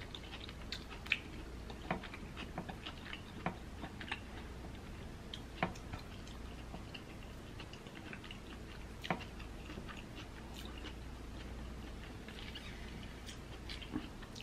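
A person chewing soft, sauce-soaked crab meat close to the microphone: wet chewing with scattered mouth clicks and smacks, a few of them sharper.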